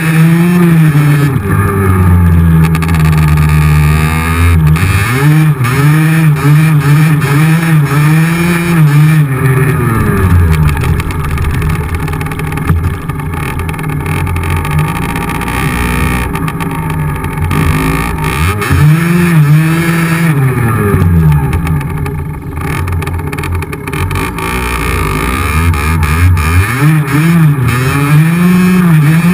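Yamaha DT50X's 50cc two-stroke engine revving as the bike is ridden, its pitch climbing and dropping again and again as the throttle opens and it shifts gears, easing off for a while in the middle.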